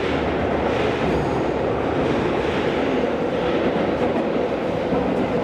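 Steady running noise of a Tokyo Metro 16000 series subway train heard from inside the car: wheels rumbling on the rails in an underground tunnel, travelling at speed between stations.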